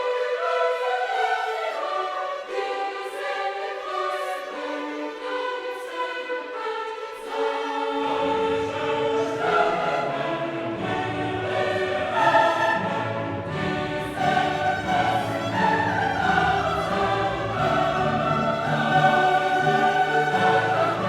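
Classical music: a choir singing with orchestra. Low voices and instruments join the high ones about a third of the way in, and the sound grows fuller.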